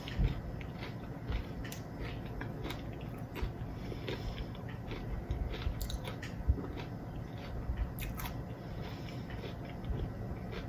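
A person chewing a crunchy snack close to the microphone: a cream-cheese-stuffed jalapeño with Takis rolled tortilla chips, giving irregular crunches and wet clicks, with a few sharper bites shortly after the start and about six and a half seconds in.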